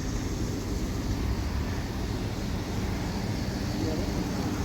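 A vehicle engine running steadily, a low even rumble with no distinct events.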